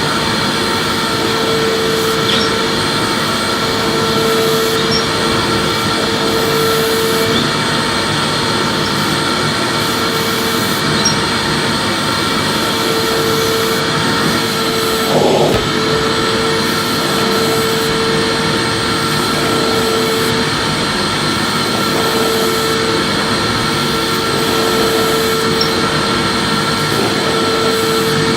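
Electric vacuum cleaner running steadily while being swept across a surface, a hum in its drone coming and going every few seconds. There is a brief bump about halfway through.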